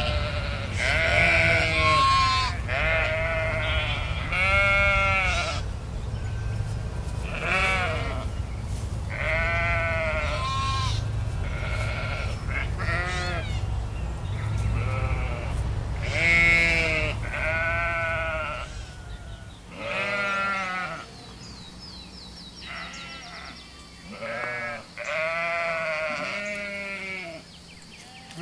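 Sheep bleating, many calls one after another, over a low steady rumble that fades away about two-thirds of the way through.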